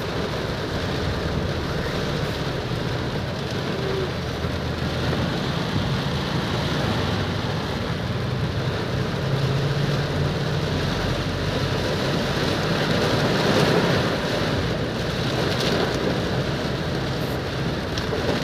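Heavy rain in a steady, dense downpour, with a faint low hum underneath.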